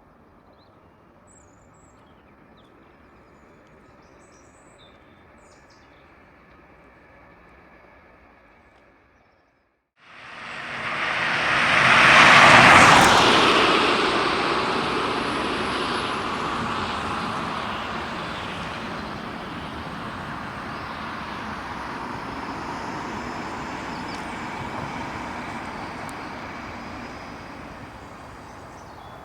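A jet aircraft passing low overhead: the roar swells quickly to a loud peak and then fades slowly. Before it, a faint outdoor background with a few bird chirps.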